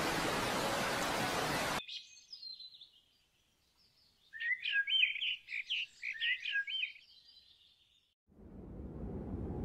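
Small birds chirping and twittering in short repeated phrases of quick falling notes for several seconds. Before them, a steady rushing hiss cuts off abruptly about two seconds in, and another hiss swells up near the end.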